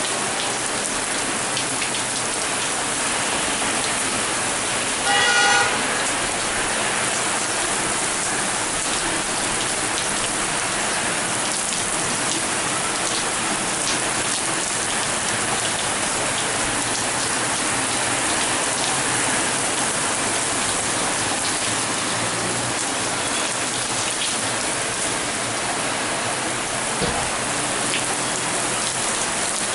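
Heavy rain pouring steadily onto surfaces. About five seconds in, a short, loud pitched beep sounds over it.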